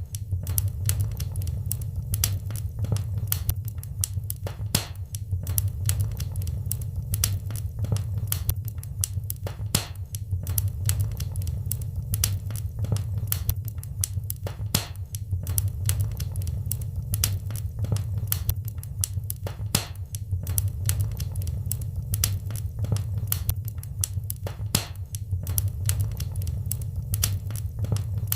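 Wood fire in a fireplace crackling, with many irregular sharp pops and snaps, several a second, over a steady low rumble.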